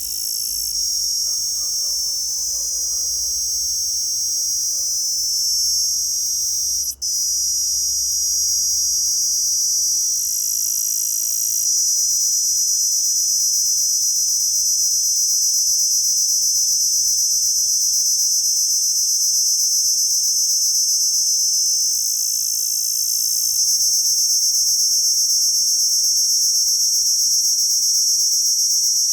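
An insect's continuous shrill, high-pitched call, with a split-second break about seven seconds in.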